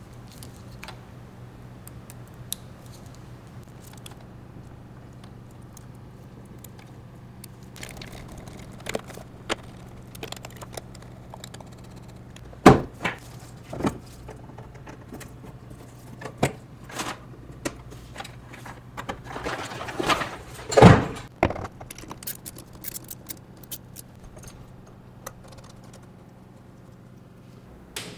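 Hand assembly of a CNC router: metal parts and tools clinking, clicking and knocking at irregular intervals, with a louder knock about twelve seconds in and a scrape ending in a thunk about twenty-one seconds in, over a steady low hum.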